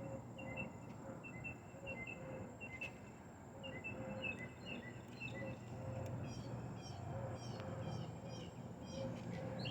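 Outdoor ambience with birds chirping, short calls repeating about twice a second. A second, higher set of chirps joins about halfway through.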